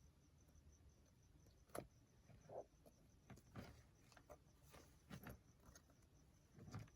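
Near silence with faint, scattered light taps and short rustles of paper being handled.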